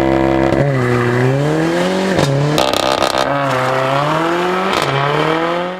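Tuned EP3 Honda Civic Type R's 2.0-litre four-cylinder engine and exhaust revving, the pitch held briefly, then falling and rising again and again, with sharp drops about half a second and two seconds in.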